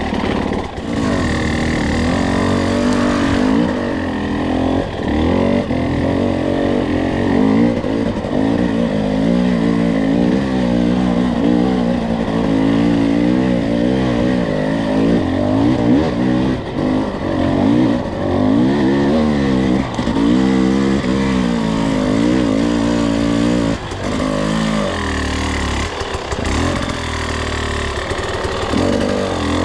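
Two-stroke enduro dirt bike engine under way, its pitch rising and falling again and again as the throttle is worked on a slick trail.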